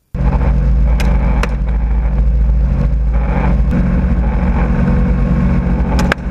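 Helicopter engine and rotor running steadily, heard loud from inside the cabin, with a few sharp clicks.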